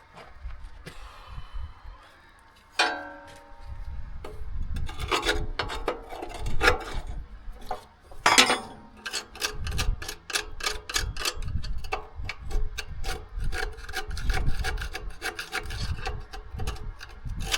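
Hand tool working at tractor parts: quick, repeated scraping strokes and clicks, with one ringing clink about three seconds in.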